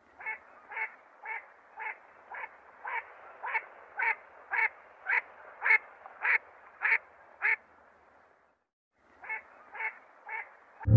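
Mandarin duck calling in a steady run of short, evenly spaced calls, about two a second, followed by a brief pause and three more calls near the end.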